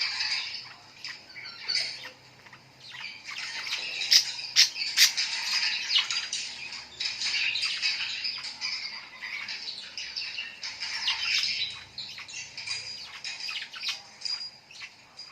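Many birds chirping and squawking at once, their calls overlapping in a dense chatter that thins briefly about two seconds in.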